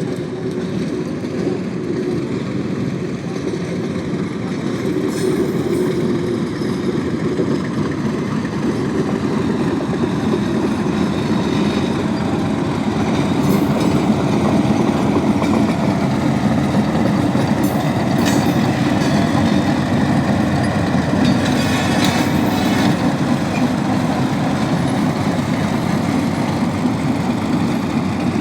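A train passing over a railway level crossing: a steady heavy rumble of wheels on the track, with a few sharp clacks along the way.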